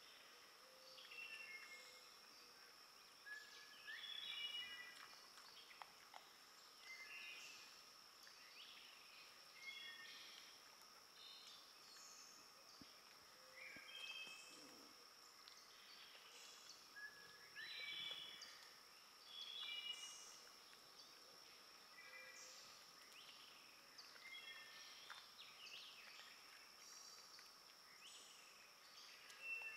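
Faint woodland birdsong: short songs of a few notes repeated every second or two, over a steady high-pitched hum.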